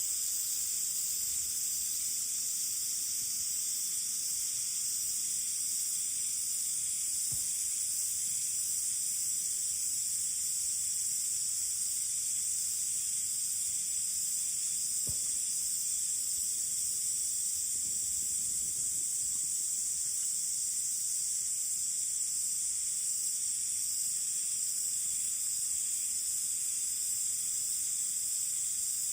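Steady high-pitched insect chorus, with a couple of faint ticks in the middle.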